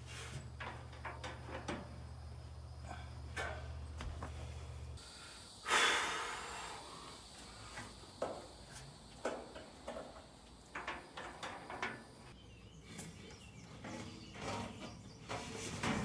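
Scattered knocks and clicks of dryer parts being handled, with one loud knock about six seconds in. A low steady hum stops suddenly about five seconds in.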